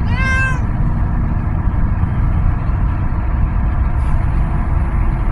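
Steady low road and engine rumble inside a moving car's cabin, with one short meow from a cat right at the start.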